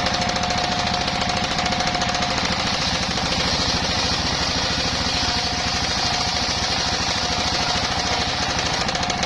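Engine-driven mobile circular sawmill running with a rapid, steady engine pulse. From about three seconds in, a brighter hiss comes up as the blade cuts through a bayur log, and the steady ring of the free-spinning blade fades.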